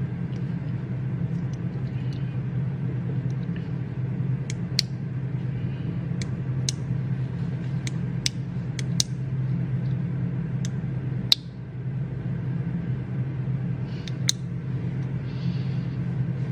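Library reading-room ambience: a steady low hum with about ten scattered, irregular sharp clicks of people working at their desks, the sharpest about eleven seconds in.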